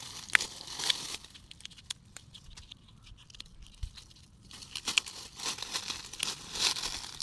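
Dry fallen leaves rustling and crunching while someone rummages for walnuts among them, in two spells: through the first second and again from about halfway to the end, with a quieter stretch between.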